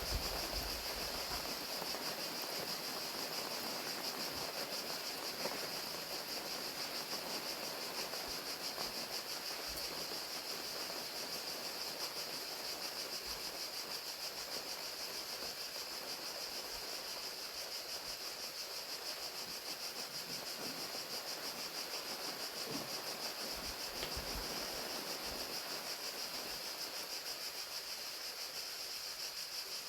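Crickets trilling steadily in a continuous high, fast-pulsing chorus over the even hiss of falling rain.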